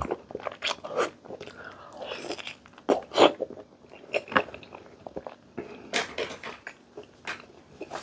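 A person biting and chewing santol (cotton fruit) coated in shrimp paste: irregular crunching bites and wet mouth sounds, loudest about three seconds in and again around six seconds.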